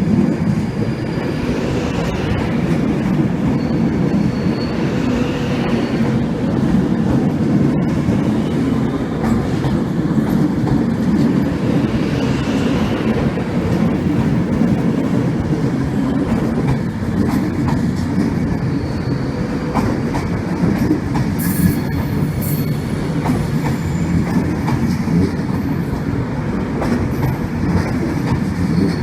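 A train moving slowly along the track, its wheels rumbling steadily, with faint wheel squeals now and then and occasional clicks over the rail joints.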